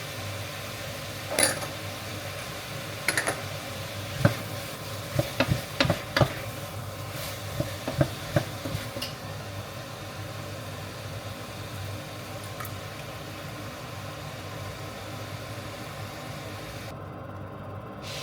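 Cooking in a pot: a utensil knocks and clinks against the pot a dozen or so times during stirring, over a steady sizzling hiss. The clinks stop about halfway through, leaving the hiss.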